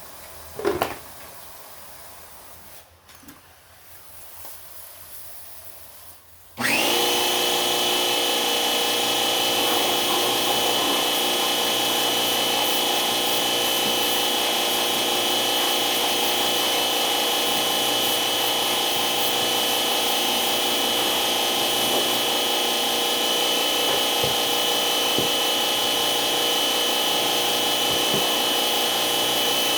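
An electric power tool switches on about six and a half seconds in and runs steadily at constant speed, with a steady high tone over its noise. A short sliding squeak comes about a second in.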